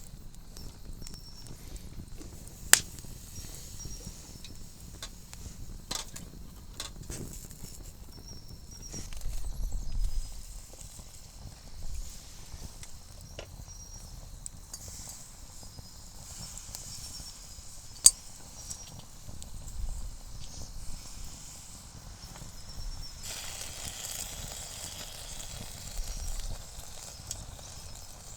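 Campfire burning, the wood crackling with scattered sharp pops, two of them loud. A soft hiss comes in near the end.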